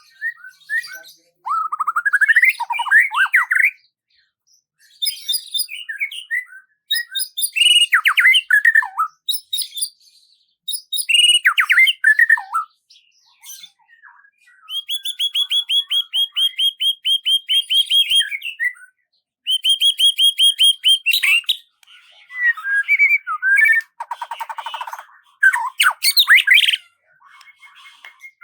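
Songbird singing in separate phrases of sliding whistled notes and chirps, with a fast run of rapid repeated notes lasting about four seconds midway and a harsher buzzy note near the end.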